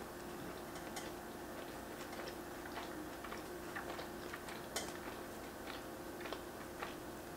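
Close-miked chewing of a mouthful of cheeseburger: soft, irregular wet mouth clicks and smacks, the sharpest a little before the five-second mark.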